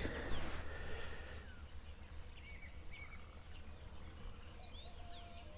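Faint birds chirping in the background, scattered short calls and a few repeated notes, over a low steady rumble.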